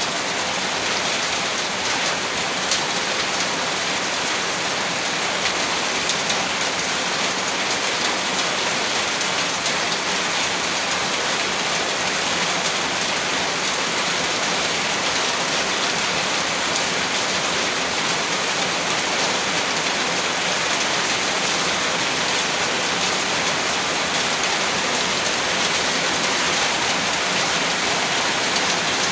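Heavy rain falling steadily, a dense even patter of drops on a surface with no letup.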